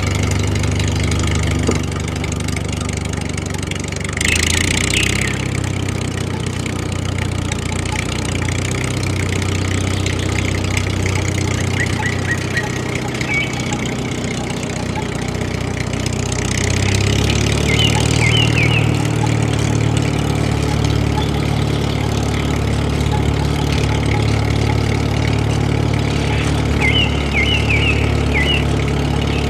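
A DIY mini tractor's small motor running steadily, getting somewhat louder about halfway through, with brief high squeaks a few times.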